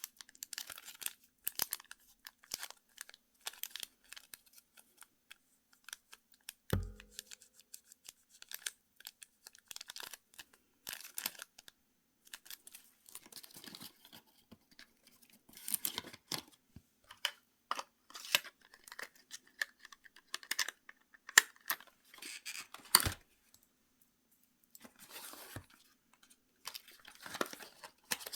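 Packaging being unwrapped by hand: irregular crinkling, rustling and tearing of wrapping. An object is set down with a dull thud about seven seconds in, and there is a sharp click near 23 seconds.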